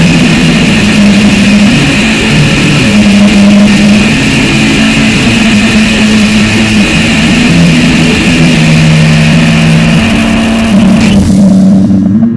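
Loud, harsh distorted noise music: low sustained notes that shift pitch every second or two under a dense, grating hiss of metallic overtones. About eleven seconds in, the high hiss drops away, leaving the low notes.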